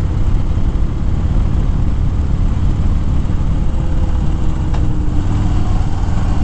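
Harley-Davidson Fat Bob's V-twin engine running steadily at riding speed. It is a continuous low rumble mixed with rushing wind noise.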